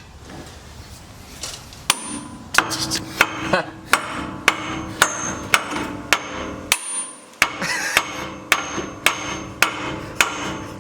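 Hammer striking metal on a Jeep's suspension, a steady series of ringing blows about two a second, starting about two seconds in, with a short pause near the seven-second mark.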